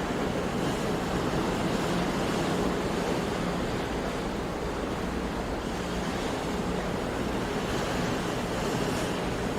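Sea surf: a steady, continuous wash of waves with no single break standing out.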